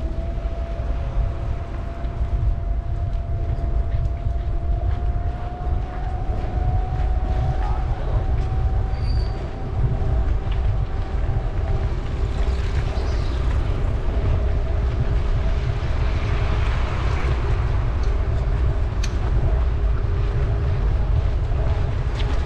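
Heavy wind rumble on the microphone of a moving bicycle, with a thin steady whine that rises slightly in pitch over the first several seconds.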